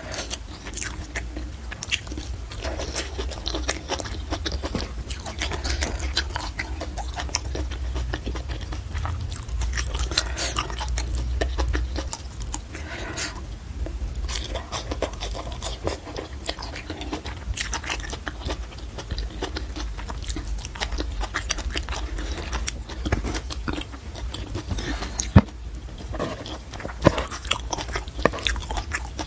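Close-miked chewing and biting of hand-fed mouthfuls of rice and side dishes: dense, irregular crunches and wet mouth clicks over a low steady hum, with one sharp click near the end.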